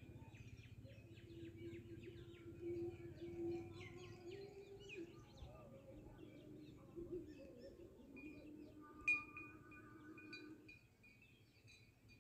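Faint background birds chirping on and off over a low steady hum, with one short click about nine seconds in.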